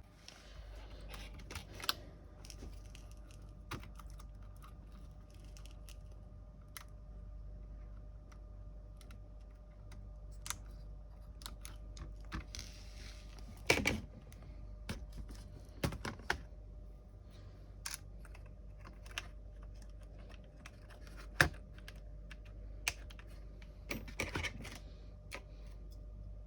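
Sparse, irregular clicks and taps of hands working on a laptop, over a steady low hum.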